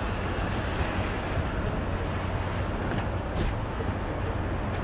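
Steady rumbling noise of a train, with a few faint ticks over it.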